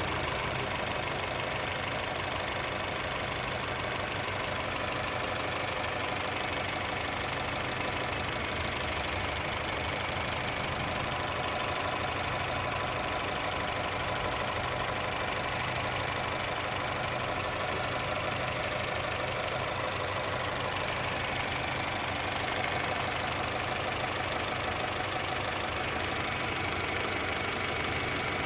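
Honda City car engine idling rough, holding a steady speed with no revving.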